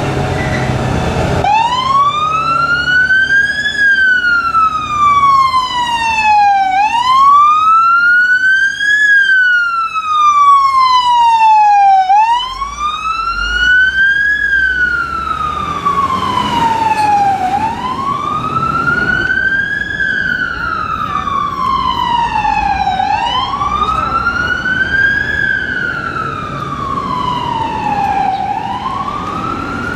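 Fire engine siren sounding a slow wail, starting about a second and a half in. Each cycle rises over about two seconds and falls over about three, repeating roughly every five seconds. A low engine rumble runs underneath in the second half.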